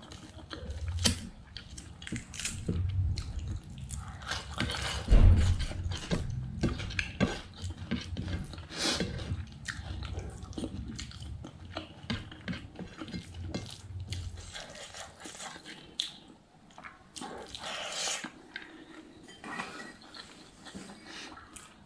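Close-up wet chewing and lip-smacking of a person eating by hand, with many short mouth clicks and soft sounds of fingers working rice on a plate. One louder low thump about five seconds in.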